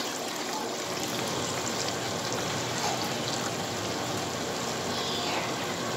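Flour-dredged chicken pieces frying in hot oil in a large pan: a steady sizzle with fine crackling.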